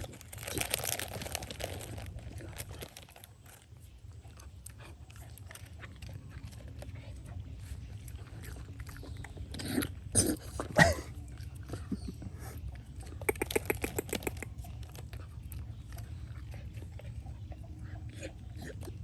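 Dog chewing and crunching food, with many small crunches and clicks and a few louder bites about ten to eleven seconds in.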